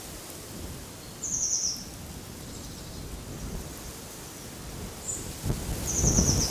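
A songbird gives two short, rapid, high-pitched trills, about a second in and again near the end, with a single brief chirp between them. Wind rumbles on the microphone underneath and swells near the end.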